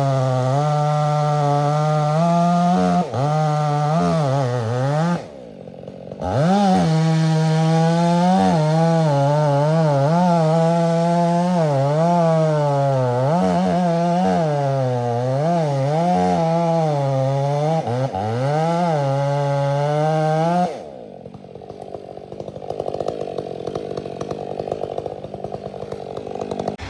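Chainsaw running at high revs and cutting, its pitch dipping and recovering again and again as the chain bites into the wood. It eases off briefly about five seconds in, runs on, then stops near the three-quarter mark, leaving a quieter low engine noise.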